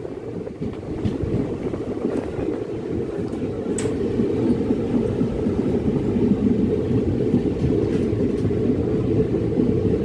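Passenger train running on the track, heard from on board: a steady low rumble of wheels and coach, with a single sharp click about four seconds in.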